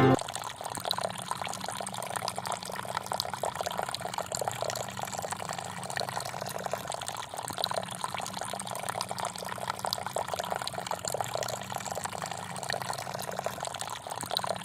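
Water pouring in a steady trickle, over a steady low hum.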